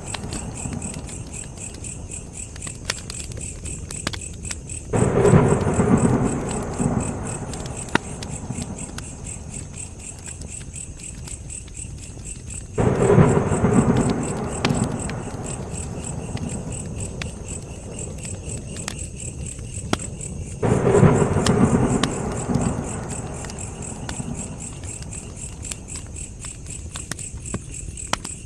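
Campfire burning with scattered sharp crackles over a steady high chirring of insects. About every eight seconds a loud low rumbling swell starts suddenly and dies away over a few seconds, three times in all.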